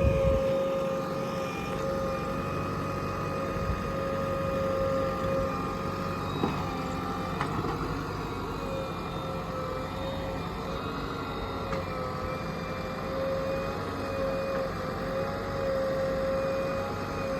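Heavy diesel machinery running steadily: a low engine rumble with a steady high-pitched whine over it.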